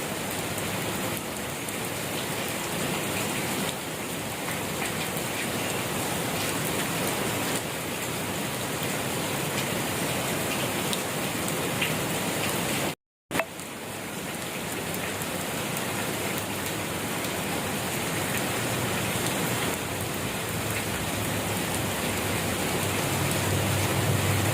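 Steady gentle rain falling, a dense even patter with scattered individual drops. It cuts out abruptly for a fraction of a second around the middle, then resumes. A low rumble builds near the end.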